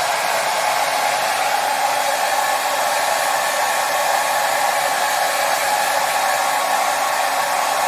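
Hair dryer running steadily: an even whooshing blow of air and fan noise with a faint steady hum, played continuously as soothing white noise for babies.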